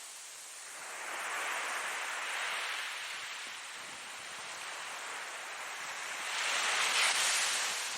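Ocean waves breaking and washing in as a steady hiss that swells twice, the second wave louder near the end.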